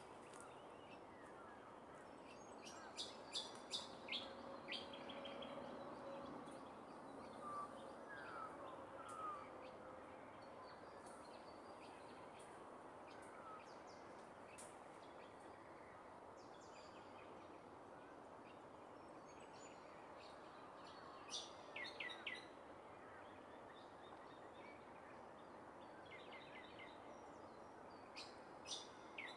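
Birds chirping in short bursts a few times over a faint, steady outdoor background hiss.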